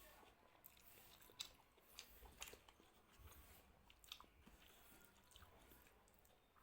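A person chewing a mouthful of food, faintly, with a few sharp wet mouth clicks between about one and a half and four seconds in.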